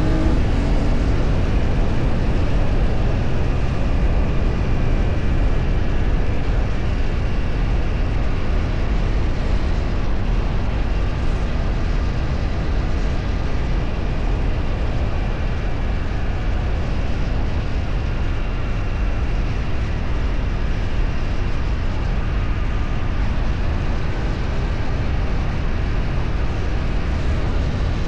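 Steady noise of a moving road vehicle at cruising speed: wind and road rumble with the engine running under it, unchanging throughout.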